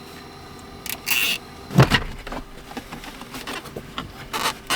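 Knocks, clicks and rustling of hands working on the wiring inside a truck's center console, with one loud knock just under two seconds in and short hissy rasps about a second in and near the end.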